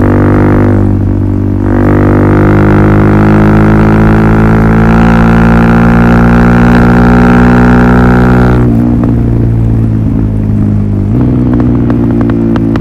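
Suzuki DR-Z400SM's single-cylinder four-stroke engine through a Yoshimura full exhaust system, a deep steady drone. It eases off briefly about a second in, then is held at one engine speed for about seven seconds. It drops back about nine seconds in, with light clicking and rattling after.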